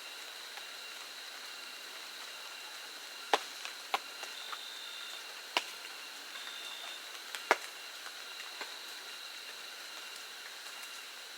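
Steady high-pitched insect drone at several pitches, with a few sharp clicks or snaps, the loudest about a third of the way through and again about two-thirds through.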